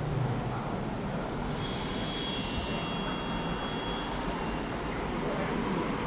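A train moving along the rails with a steady low rumble. From about a second and a half in until near five seconds, a high-pitched squeal of several steady tones rides over it, then fades.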